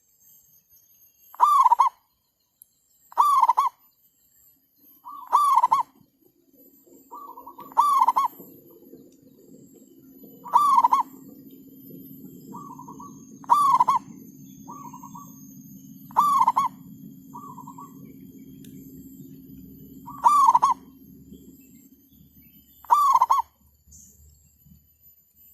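Zebra doves (perkutut) calling: loud short cooing notes repeat about every two and a half seconds, with fainter answering notes between them. A low steady drone runs underneath through the middle of the stretch.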